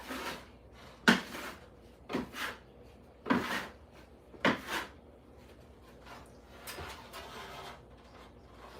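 A series of short rubbing strokes on a hard surface, about one a second, the loudest about a second in, turning fainter near the end.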